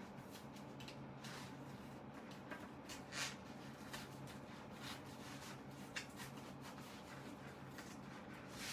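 Faint, irregular scratching, rustling and small clicks as a synthetic-leather Bible cover is handled and worked apart, with a slightly louder scrape about three seconds in and a click about six seconds in, over a steady low hum.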